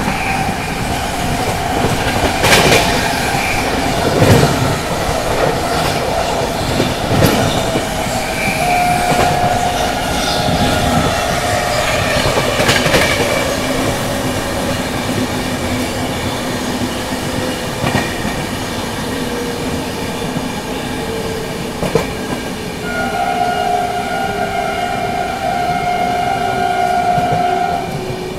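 Rajdhani Express train running on the rails with a steady rumble and scattered clicks of wheels over rail joints. A locomotive horn sounds briefly about nine seconds in and again for about five seconds near the end.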